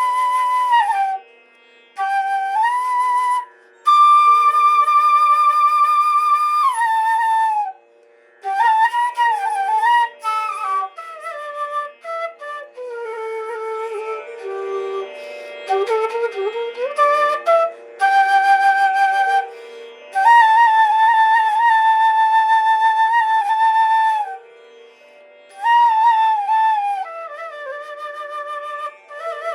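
Solo flute playing a slow melody over a steady drone: long held notes with vibrato and sliding glides between notes, broken by brief pauses.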